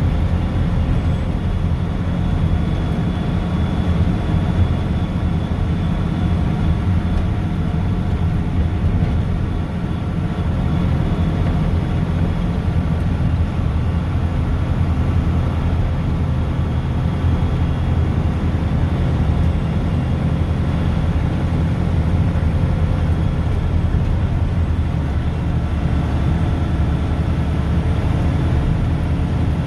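Mack snowplow truck's diesel engine running steadily under way, with a constant low rumble and road noise.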